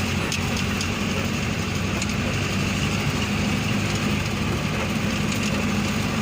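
Truck engine running steadily while driving, heard from inside the cab as an even low drone with a few faint ticks.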